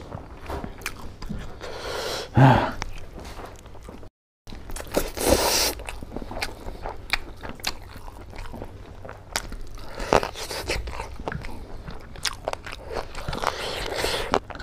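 Close-miked mouth noises of a person eating pork curry and rice by hand: chewing, biting and lip-smacking, with wet squishes as fingers work the food. A short drop to silence about four seconds in.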